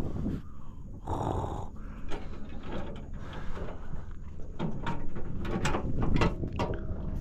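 Irregular knocks and clatter of handling on a small boat, over a low rumble.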